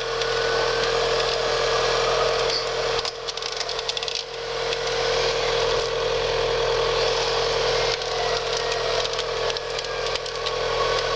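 Vehicle winch running steadily under load with a constant whine, under continuous crackling noise.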